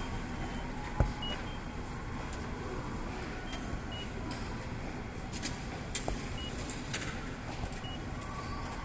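Ticket vending machine touchscreen giving short high beeps, about five in all, as its buttons are pressed, over a steady background hum, with a single thump about a second in.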